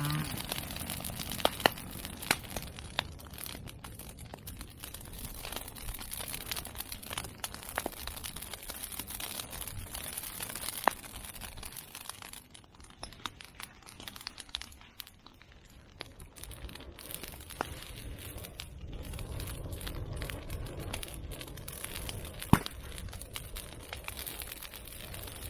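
Open burn pile of cut medake bamboo and chestnut prunings crackling, with a steady rush of flame and scattered sharp pops. One loud pop stands out near the end.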